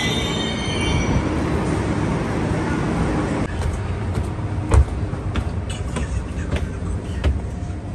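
Steady rumble of a Renfe Cercanías double-deck commuter train standing at the platform, then irregular footsteps and knocks as a child climbs the train's interior stairs, with one loud thump a little under five seconds in.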